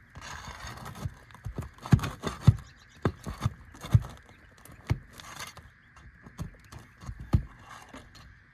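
Steel flat bar working roofing nails out from under asphalt shingles: a rasping scrape, then an irregular run of sharp metal knocks and clicks with short scrapes as the bar is levered under the nail heads.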